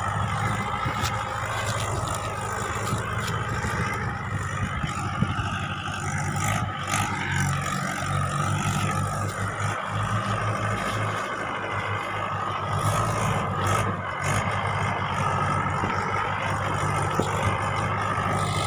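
Mahindra 575 tractor diesel engines running steadily, their pitch wavering a little up and down.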